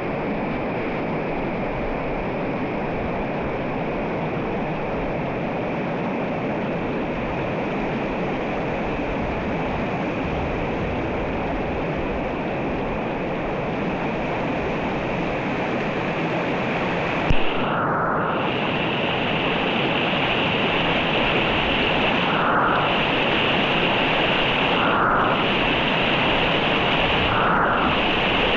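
Mountain river running, a steady rushing of water. About two-thirds of the way through there is one sharp click, after which the water sound turns brighter and hissier, with brief dips every two to three seconds.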